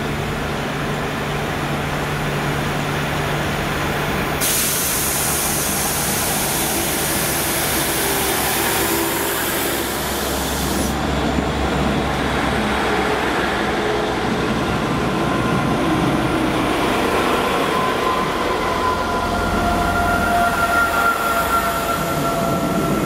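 Class 150 Sprinter diesel multiple unit running in along the platform and passing close, its underfloor diesel engine humming. A loud hiss comes in about four seconds in and stops suddenly about eleven seconds in. In the last several seconds a steady high squeal from the train joins as it slows.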